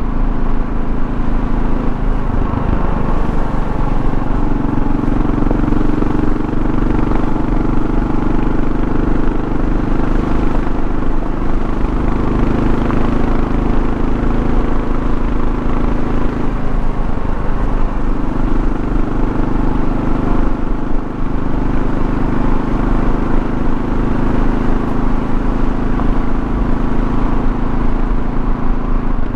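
Kawasaki KLR650's single-cylinder four-stroke engine running steadily under way, with road noise. The engine note breaks and resettles briefly twice, about three seconds in and again around the middle.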